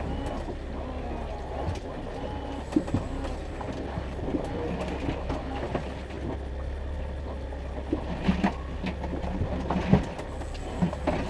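Boat motor running steadily with a low drone, with scattered light knocks and clicks from handling in the boat, busier near the end.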